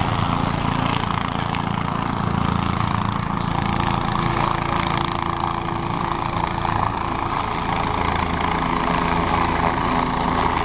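Helicopter slowing to a hover at near-zero airspeed, its rotor and engine making a steady drone with a few held low tones.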